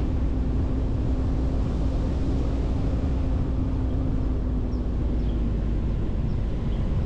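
Pickup truck driving downhill, heard from the open back bed: a steady low rumble of engine and road with a constant hum.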